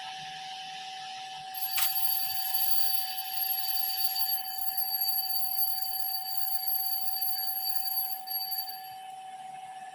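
A steady electronic tone, with higher-pitched tones joining about one and a half seconds in and cutting off near the end.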